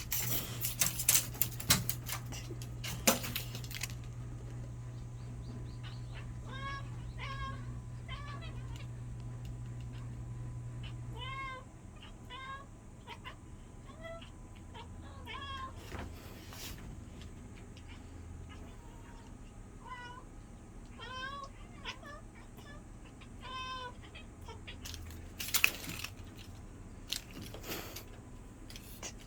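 A cat making many short meows, each rising and falling in pitch, in quick runs of two to four. Sharp clattering noises come at the start and again near the end, and a steady low hum stops about halfway through.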